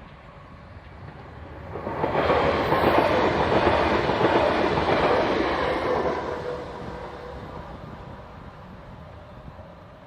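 A train passing close by on the tracks: its rumble swells sharply about two seconds in, stays loud for about four seconds, then fades away.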